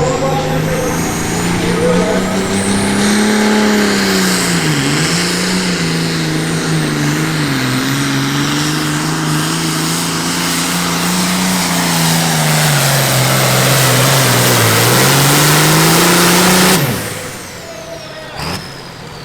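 Super Farm class pulling tractor's turbocharged diesel engine at full throttle dragging a sled, with a high turbo whine over the engine, whose pitch sags and recovers under load. About 17 seconds in the throttle cuts off suddenly and the turbo whistle winds down.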